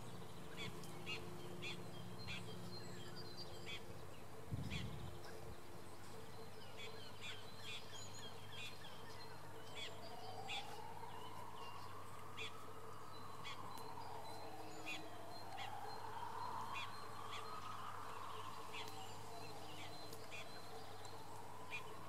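Small birds chirping in short, scattered calls throughout. From about ten seconds in, a faint tone slowly rises and falls about once every five seconds, and there is a brief low thump about four and a half seconds in.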